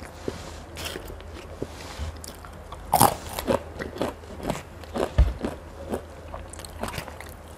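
Close-miked mouth sounds of eating Mie Gacoan fried noodles: a mouthful of noodles slurped in, then steady chewing with wet smacks and short clicks, louder for a moment about three seconds in.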